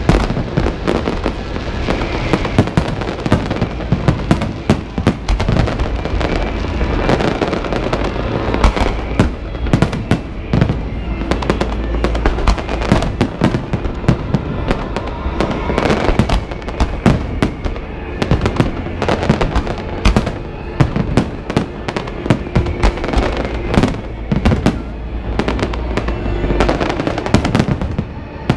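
A large fireworks display in full barrage: many sharp bangs and crackles overlapping without a break, with music playing underneath.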